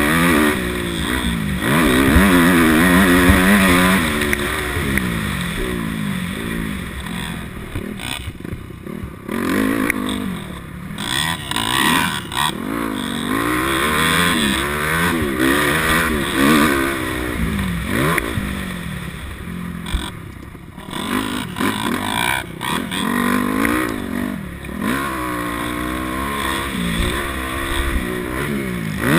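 250 motocross dirt bike engine being ridden hard, revving up and dropping back again and again, its pitch rising and falling with throttle and gear changes.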